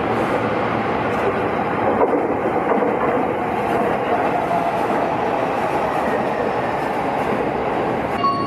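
Electric train running along the platform track, a steady rumble of wheels on rail with some clatter over the rail joints. Just before the end, a station departure melody starts playing in short chime notes.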